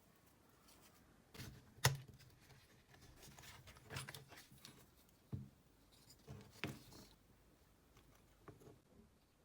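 Scattered sharp clicks and knocks of small hard parts being handled and set down, with light scraping between them; the loudest click comes about two seconds in.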